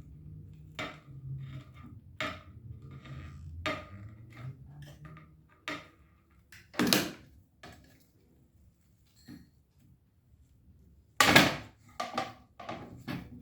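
Scattered light clinks, knocks and rustles of hard objects being handled, with two louder clatters, about seven and eleven seconds in.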